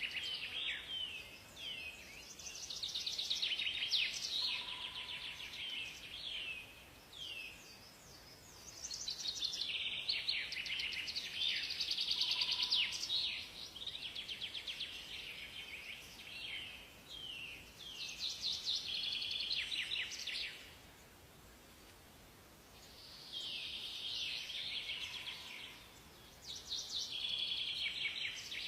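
Forest songbirds singing in bursts of fast, high chirps and trills a few seconds long, with short pauses between phrases and a brief quiet spell about two-thirds of the way through.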